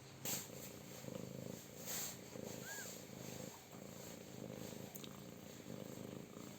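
Mother cat purring steadily through labour and nursing. A sharp rustle starts it, with another about two seconds in, and one brief high chirp near the middle.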